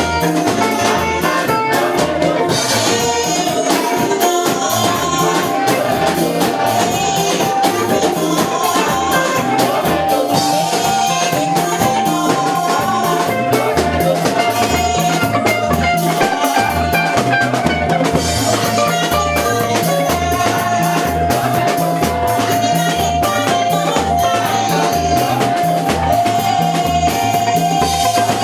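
Church praise music played by a live band: a drum kit keeps a steady beat under a long held note.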